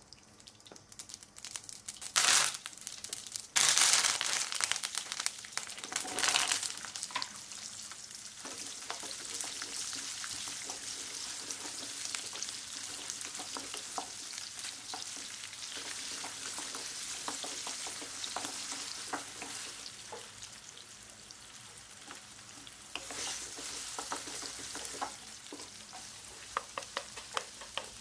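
Mustard seeds, then shallots and curry leaves frying in hot oil in a nonstick pan: loud surges of sizzling about two, four and six seconds in, then a steady sizzle with scattered pops and clicks as a wooden spatula stirs.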